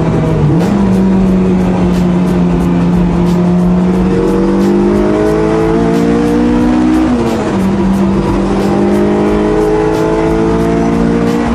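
Honda Integra Type R DC5's K20 four-cylinder engine pulling hard under acceleration, its pitch climbing steadily, with a quick upshift about seven seconds in and another right at the end.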